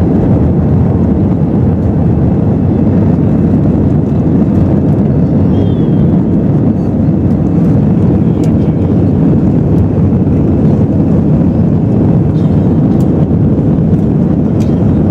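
Steady cabin noise inside a Lufthansa Airbus A320-214: an even, low roar of its CFM56 engines and the airflow over the fuselage, with no change in pitch or level.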